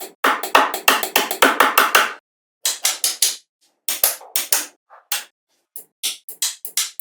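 A rapid run of sharp knocks or taps, roughly four to six a second, in bursts broken by short silent gaps.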